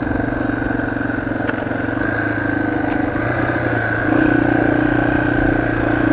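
Dirt bike engine running steadily at low speed, getting louder about four seconds in as the throttle opens a little. Heard through a cheap microphone stuffed into the rider's helmet cheek pad.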